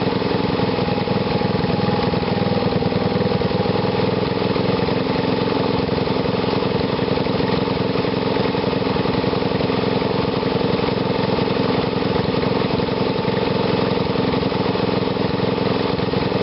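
Engine running on a home-built GEET fuel reformer reactor, idling steadily with no change in speed.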